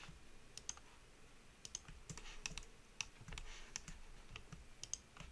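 Faint, irregular clicks of a computer keyboard and mouse being worked.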